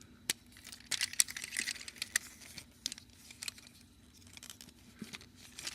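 Scattered light clicks and rustles of a plastic Transformers Sandstorm figure being handled and worked through its transformation, its parts clicking against each other.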